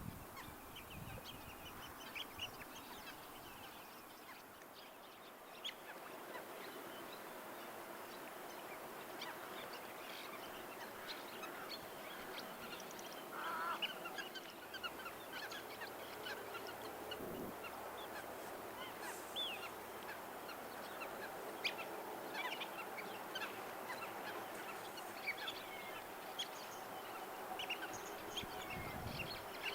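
A flock of wetland waterbirds calling: many short, overlapping calls throughout, over a steady background hiss.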